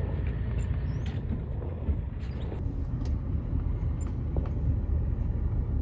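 Truck engine running with a steady low rumble as the truck sets off.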